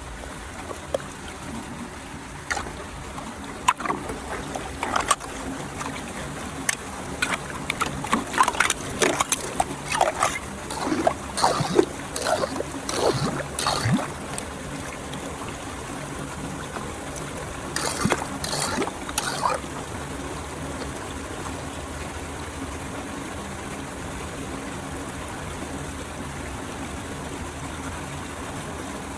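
Water flowing steadily into a cleared storm drain, with irregular splashing and gurgling through much of the first half and again briefly around eighteen seconds.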